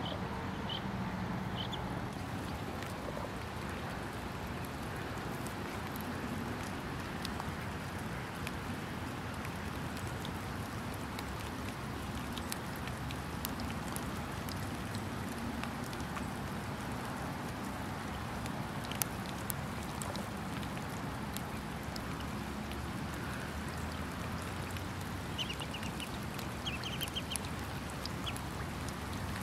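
Steady rain falling on a marsh, with scattered drops tapping close by. Ducks quack now and then, and a bird gives a few short high calls near the end.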